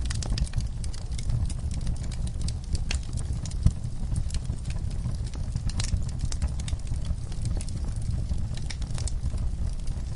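Wood fire burning in an outdoor fireplace: a steady low rumble with frequent sharp crackles and pops of the burning logs.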